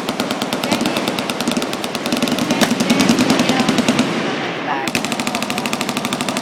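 Full-auto machine-gun fire: a long burst of rapid, evenly spaced shots lasting about four seconds, a short break, then another rapid burst near the end.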